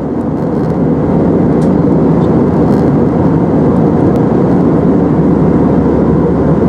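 Steady low rumble of cabin noise inside an Airbus A319 on the ground before takeoff, the drone of air conditioning and engines heard from a window seat, rising slightly in the first second and then holding level.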